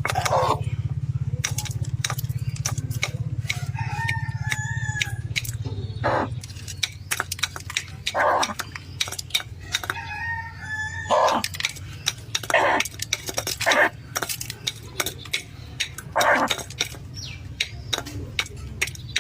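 Poultry calling: a rooster crows twice, about four and ten seconds in, and shorter clucking calls are scattered through. Frequent sharp clicks and a steady low hum run underneath, and the hum fades about halfway.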